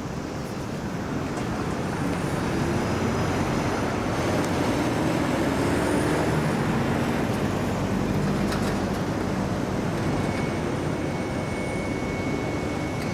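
Road traffic: motor vehicle engines passing, swelling to a peak midway and then easing off. A faint thin high whistle comes in near the end.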